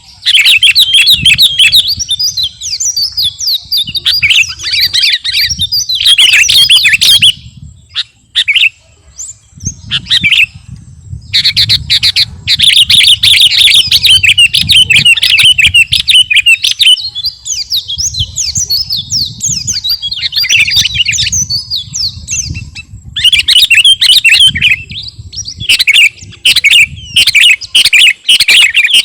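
Sooty-headed bulbul (kutilang) singing loudly in long bouts of rapid chattering notes, with short breaks about seven seconds in and again near 23 seconds.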